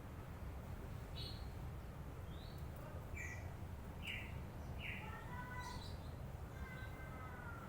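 Lovebird chattering: short, sharp chirps spaced roughly half a second to a second apart, with a few faint drawn-out whistles in the second half, over a steady low hum.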